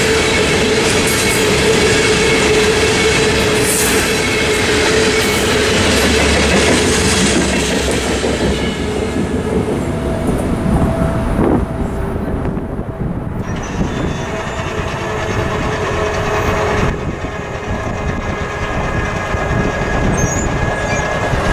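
The last coal hopper cars of a freight train rattle and clatter over the crossing, with a steady wheel squeal. After about nine seconds the train sound falls away, and the crossing's electronic warning bell keeps ringing on its own.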